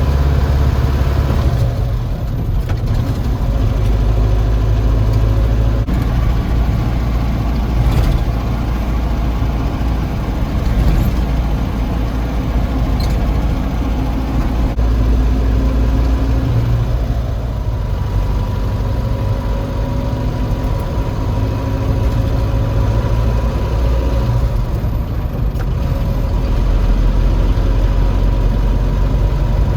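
Nissan ED30 diesel engine of an old Nissan Caball C240 dump truck running steadily, with slight changes in engine speed.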